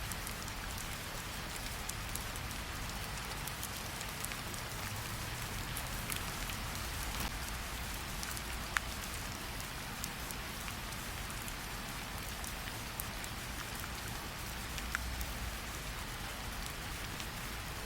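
Steady rain mixed with a crackling fireplace: a dense, even hiss of rain with scattered sharp crackles and ticks over a low rumble, one crack standing out about nine seconds in.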